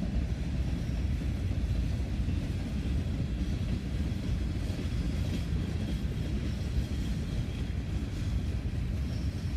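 Empty Norfolk Southern coal hopper cars rolling past: a steady low rumble of steel wheels on rail. A faint high tone comes in around the middle.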